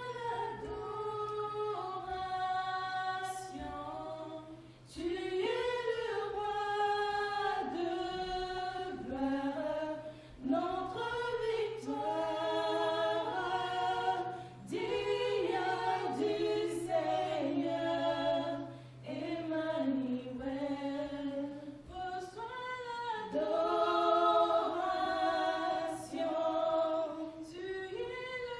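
A choir singing a hymn in held phrases a few seconds long, with brief breaths between them, over a steady low hum.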